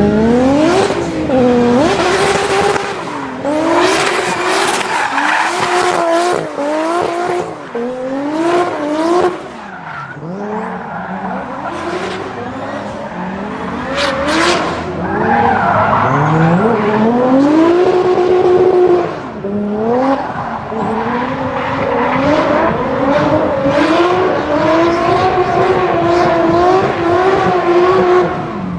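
High-performance sports car engines accelerating hard, the revs climbing steeply and falling back again and again as they shift up through the gears, with a few sharp exhaust cracks.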